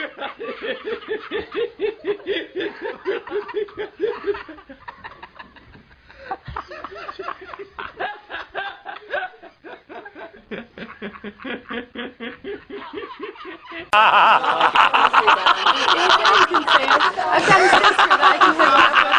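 A string of laughter clips: a person laughing in rapid, even pulses of several a second, then a deeper-voiced laugh. About 14 seconds in, a louder clip with denser, busier laughter cuts in abruptly.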